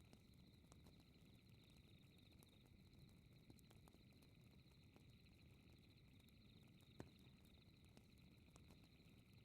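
Faint fireplace crackling: scattered small pops with one sharper pop about seven seconds in, over a low steady rumble of the fire. A steady, high, finely pulsing trill runs underneath as part of the night ambience.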